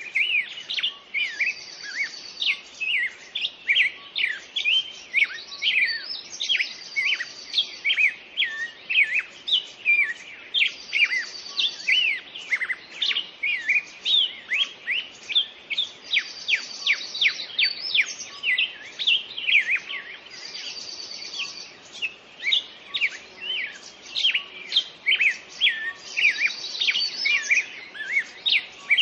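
Songbirds singing: a dense run of quick, sharply falling chirps, with a higher buzzy trill coming back about every five seconds.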